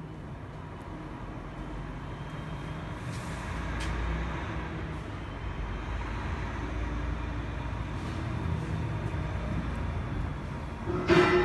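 Steady machinery noise with a low hum and faint steady tones, then a brief loud ringing clank near the end.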